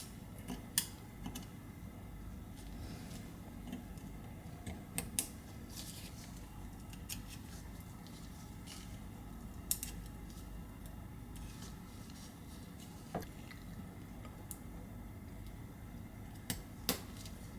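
Scattered light clicks and taps of small metal parts and tweezers against an iPhone 11's aluminium frame as its side buttons and their retaining bracket are fitted, about a dozen at irregular intervals.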